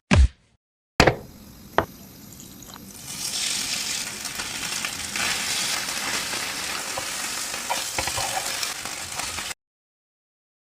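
Food sizzling as it fries in hot oil, the sizzle swelling about three seconds in and holding steady before it cuts off abruptly near the end. Sharp knocks come just after the start and again about two seconds in.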